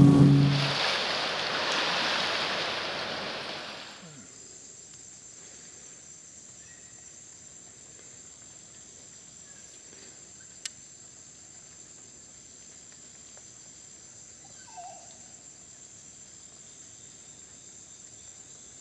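Rainforest insects calling in a steady, high-pitched chorus. It follows a loud rushing noise that dies away about four seconds in. A single click sounds near the middle, and a short falling call comes a few seconds later.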